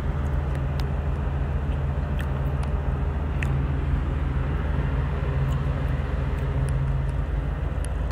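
Tugboat's diesel engines running with a steady low drone, heard on board, with a few faint ticks over it.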